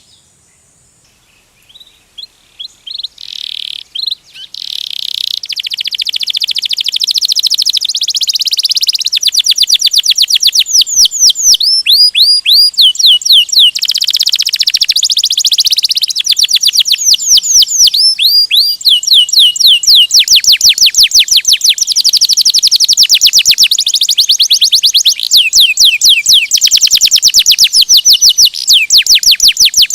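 Domestic canary singing in long rolling trills: runs of rapid, high repeated notes, many a second, with changes of note type between runs. The song starts out of a brief near-silence about two seconds in and swells to full loudness within a few seconds.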